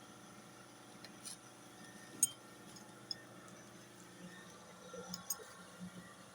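A few scattered light clicks and taps, the sharpest a little over two seconds in and a small cluster around five seconds, over a faint steady hum.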